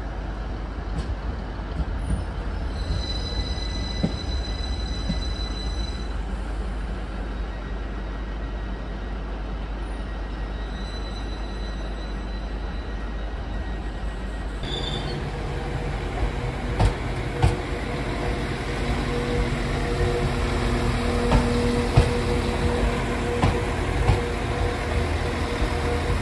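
A train at the platform: a steady low rumble, joined about halfway through by a louder engine hum with occasional knocks, growing slowly louder.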